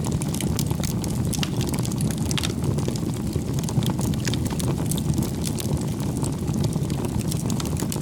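Bonfire burning: a steady low rush of flames with frequent sharp crackles and pops from the burning wood.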